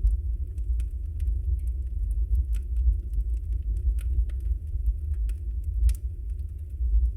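Log fire burning in a fireplace: a steady low rumble of the flames with frequent, irregular small crackles and pops of the burning wood, one of the sharper pops about six seconds in.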